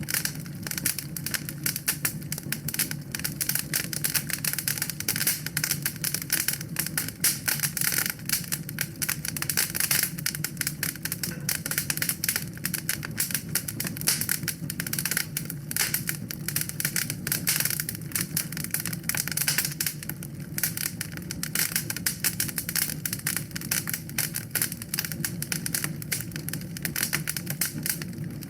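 Wood fire crackling steadily in a fireplace: a dense run of small sharp pops and snaps over a low, even rumble.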